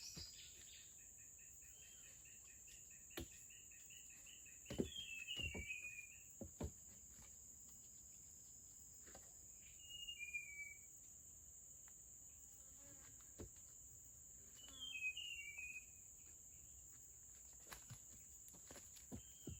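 Steady high-pitched drone of forest insects, faint overall, with a bird calling a short falling phrase several times and a warbling trill in the first few seconds. A few sharp knocks are scattered through it, like wood being handled.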